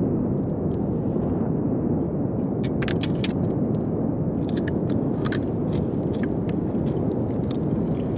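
Blizzard wind blowing hard against the microphone: a steady low rush, with a few sharp crunching clicks around three and five seconds in.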